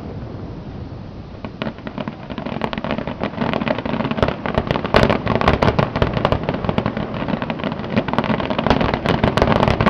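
Fireworks display: a low rumble fades, then dense crackling builds from about a second and a half in, thickest from about four seconds on.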